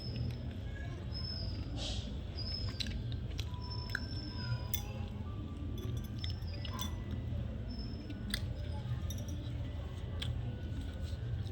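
A person chewing roti with vegetable curry and chili pickle close to the microphone: scattered soft mouth clicks over a steady low hum, with short high chirps in the background.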